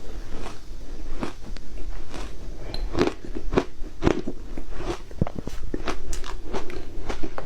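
A person biting and chewing crunchy ice with matcha, close to the microphone: irregular sharp crunches, several a second, the loudest few bites near the middle.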